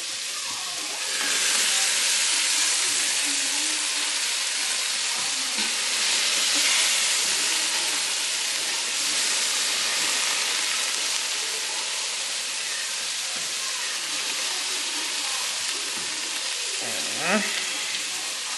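Onions frying in a pan, a steady sizzle that grows louder about a second in and eases back after several seconds.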